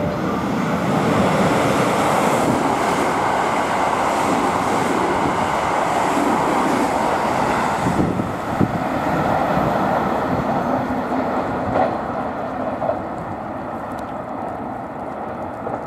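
Electric commuter train running along the elevated track, a steady rumble of wheels and motors with a few knocks from the rails, easing off in the last few seconds as it moves away. Wind buffets the microphone.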